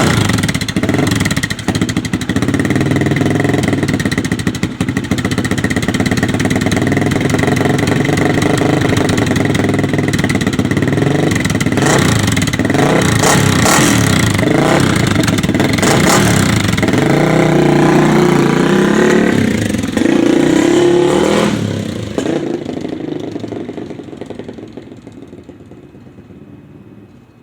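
1985 Honda XR350R's single-cylinder four-stroke dirt-bike engine catching at once and running loud, with the throttle blipped several times midway. It drops off a few seconds before the end and fades away.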